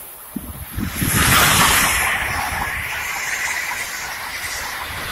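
Amtrak Acela Express high-speed trainset passing at speed. A rushing hiss of wheels and air, with low rumbling, swells about a second in, is loudest for about a second, then holds and slowly eases off.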